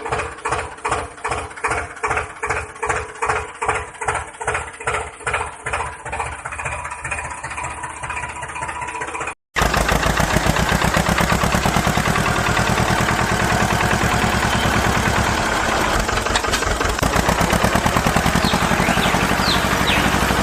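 An engine chugging with about two to three beats a second that slowly weaken. After a sudden cut about halfway through, a louder engine runs steadily.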